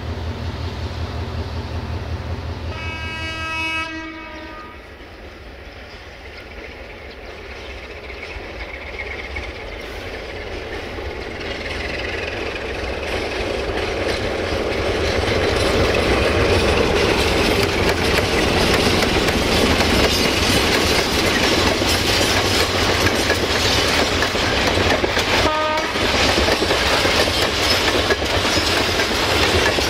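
LDH diesel-hydraulic shunter running at idle with a low rumble, its horn sounding one blast of about a second around three seconds in. Then a 060-DA diesel-electric locomotive hauling a long train of tank wagons approaches and passes, the wagon wheels clattering over the rail joints and growing louder, with a short horn toot near the end.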